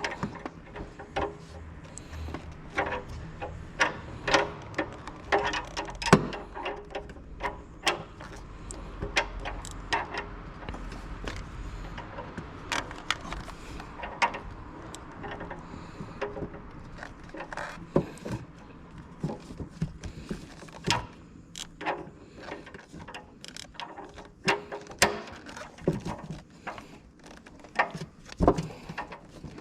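Irregular metallic clinks and knocks of hand tools and parts being handled during work on a car, a few sharper than the rest, over a low rumble in the first half.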